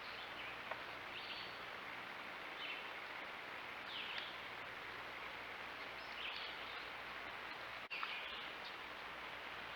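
Short, high bird calls repeating every second or two over a steady background hiss.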